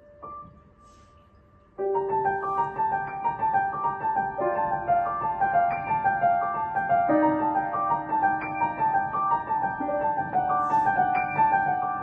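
Solo piano playing. A single note dies away and one short note sounds, then after a second or so of near quiet the playing resumes with a steady run of melody notes over held lower notes.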